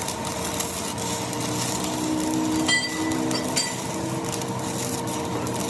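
Machine-shop lathe running with a steady hum, with two sharp metallic clinks that ring briefly about a third and half-way through.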